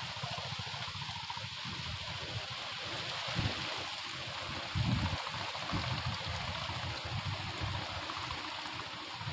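Heavy rain hissing steadily on the open reservoir in strong wind, with gusts buffeting the microphone in uneven low rumbles, the strongest about three and a half and five seconds in.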